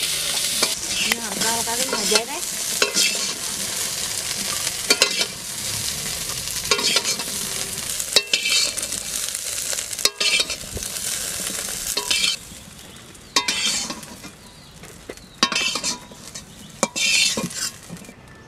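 Cut drumstick pods sizzling as they fry in oil in a metal karahi, with a metal spatula scraping and knocking against the pan as they are stirred. The sizzle falls away about twelve seconds in, leaving a few short scrapes of the spatula near the end.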